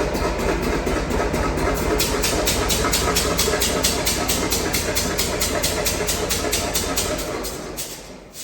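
John Deere 70 pulling tractor's big-bore 920-cubic-inch two-cylinder engine idling with an even, loping beat of about five pulses a second. The engine dies away near the end.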